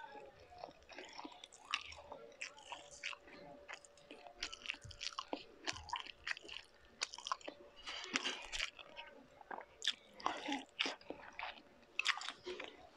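A person chewing food, with irregular mouth smacks and clicks.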